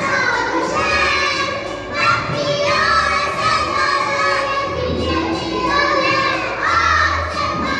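A group of young children's voices, many talking and shouting over one another.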